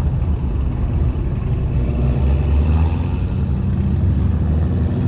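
Car engine running with a steady low rumble, a little louder about halfway through.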